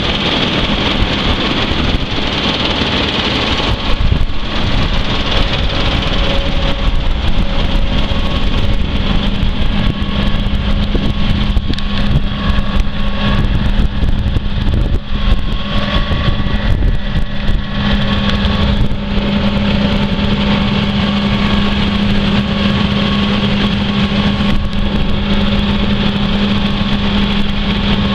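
Case IH 280 Magnum tractor's diesel engine running steadily at a constant speed, a continuous even drone.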